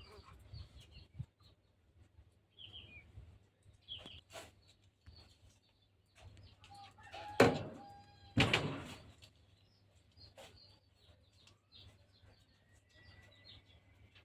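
Small birds chirping in short, high notes scattered through, with two loud sudden knocks or rustles a second apart about halfway through.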